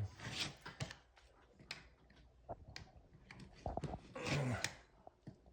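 Razor knife blade drawn through sheetrock in short strokes along a scored groove, a few scrapes about half a second long with small ticks between them, as the cut is pressed a little harder.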